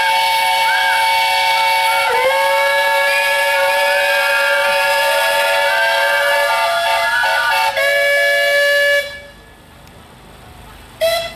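Several steam traction engine whistles blowing together at different pitches, a loud chord held until they cut off about nine seconds in. One short whistle toot follows near the end.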